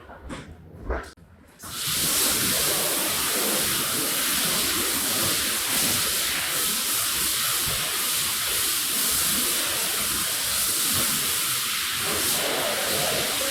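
A few short strokes, then about two seconds in a jet of pressurised water switches on and hisses steadily as it sprays the rug.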